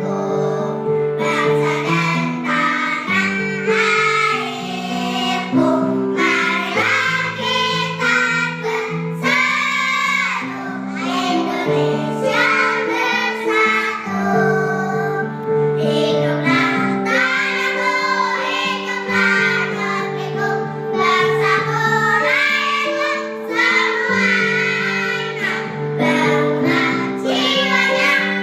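Children's choir singing in unison over electronic keyboard accompaniment that holds steady block chords.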